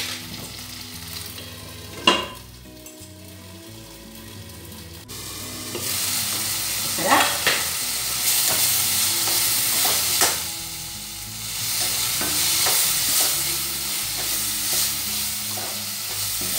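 Tomato, onion and crushed turkey berries sizzling in oil in a stainless-steel kadai while a slotted spatula stirs them, scraping and knocking against the pan now and then. The sizzle gets suddenly louder about five seconds in.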